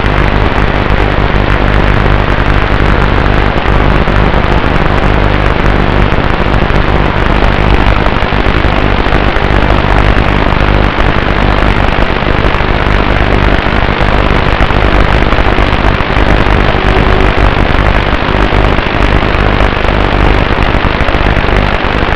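FPV drone in flight, its motors and the rushing air making a loud, steady drone on its onboard microphone, with a low hum beneath that fades a few seconds in.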